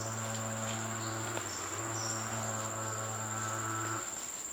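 Steady, high-pitched insect drone, typical of crickets or cicadas in tropical vegetation. Under it runs a steady low hum that cuts off near the end.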